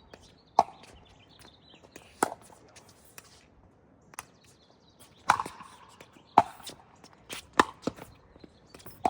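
A pickleball rally: sharp pops of paddles hitting the plastic ball, with the ball bouncing on the court, coming about a second or two apart and quickening toward the end.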